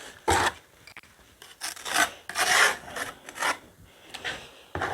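Several rough scraping strokes at irregular intervals, like a rasp or something being rubbed hard.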